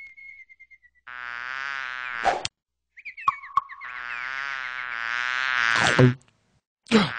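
Frogs calling in two long, buzzing croaks, each held for one to two seconds, cutting off abruptly between them. A faint falling whistle-like tone comes before the first.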